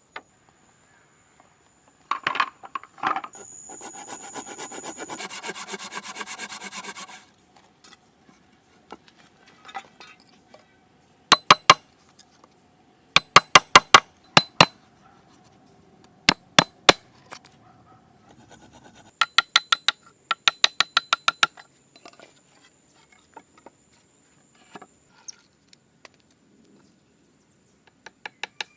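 Hand tools working wood. A few knocks and a few seconds of fast, even scraping are followed by several quick runs of sharp, ringing hammer blows, about four a second.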